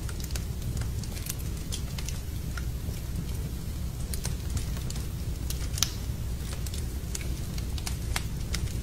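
Fire crackling in a fireplace: irregular sharp snaps and pops over a steady low rumble.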